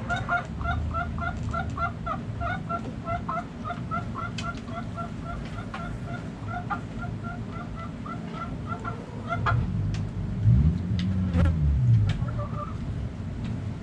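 Backyard chickens clucking: a steady run of short, evenly spaced calls, about three a second, that stops about two-thirds of the way through. Near the end, a louder low sound rises and falls over about two seconds.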